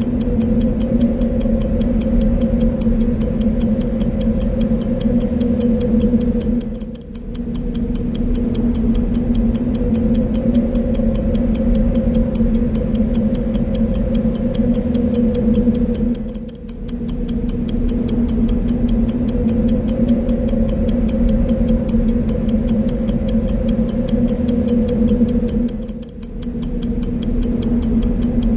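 A clock ticking steadily and evenly over a steady low wind-like background noise. The sound briefly dips three times, about every nine to ten seconds.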